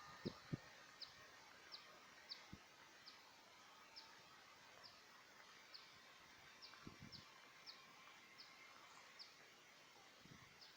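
Near silence in open country, with a small bird repeating a short, faint, high chirp roughly once or twice a second. A few faint low thumps are also heard.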